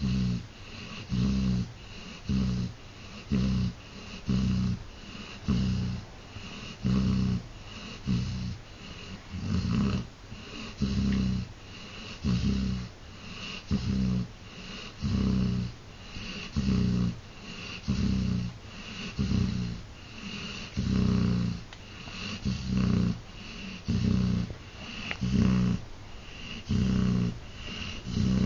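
Dog snoring, one short snore a little more than once a second in an even rhythm.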